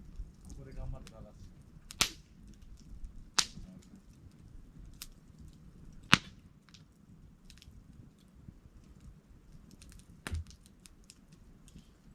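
Wood campfire crackling, with many faint ticks and four sharp pops spread through it.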